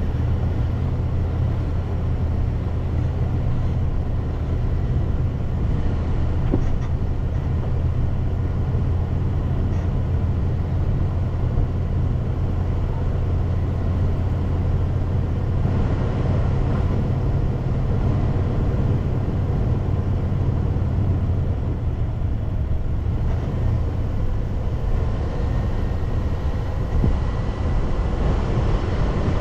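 Car driving along: a steady low road and engine rumble.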